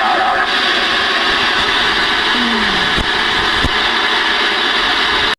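Ranger RHF-618 ten-meter radio receiving an empty channel: a steady hiss of static from its speaker, with a couple of faint clicks. It cuts off suddenly near the end.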